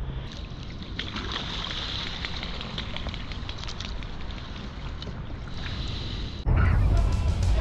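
Wind on the microphone over water, with small scattered knocks. About six and a half seconds in this cuts suddenly to loud rock music with electric guitar.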